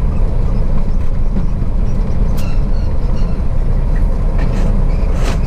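Truck engine running while driving slowly, heard from inside the cab: a steady low drone, with a couple of brief clicks or rattles.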